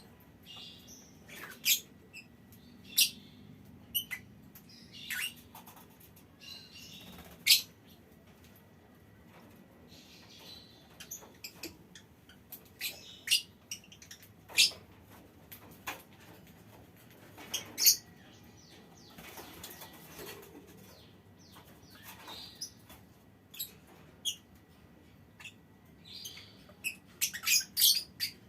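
Lovebirds in a small aviary colony giving short, sharp, high-pitched chirps at irregular intervals, coming quicker and closer together near the end.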